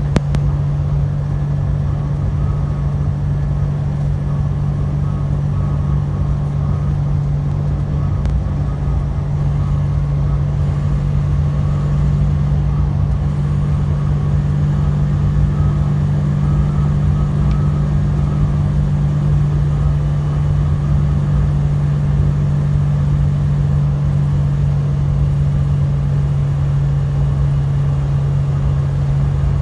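Truck running with a steady low drone, heard from the driver's cab.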